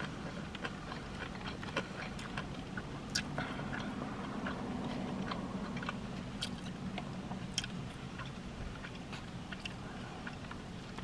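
A person chewing fast food close to the microphone, with many small, irregular wet mouth clicks and smacks over a low steady hum.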